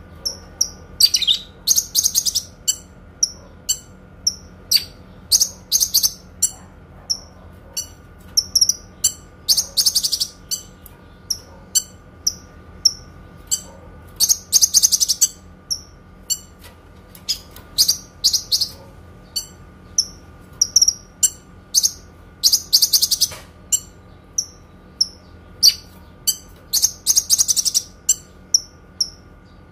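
Kinoi songbird singing clearly: short high chirps about twice a second, broken every four seconds or so by a longer rapid trill lasting about a second, the 'long shot' that songbird keepers prize in a tutoring recording.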